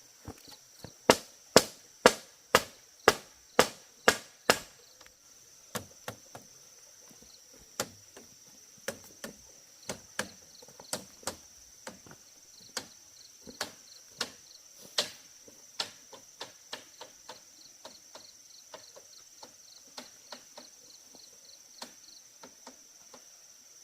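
A tool striking bamboo: a run of eight loud, sharp strikes about two a second, then lighter, irregular knocks. A steady high insect chirring runs underneath.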